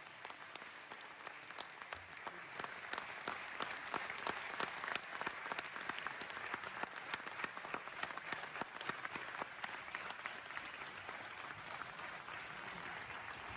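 Audience applauding, many hands clapping at once; the clapping builds over the first few seconds and then holds steady.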